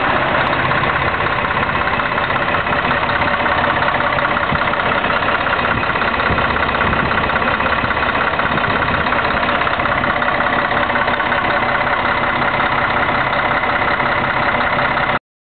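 Scania K113 bus's six-cylinder diesel engine idling steadily, then cutting off suddenly near the end.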